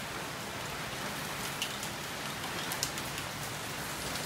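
Heavy rain falling steadily: an even hiss of rain, with a few sharp ticks of single drops striking close by in the middle.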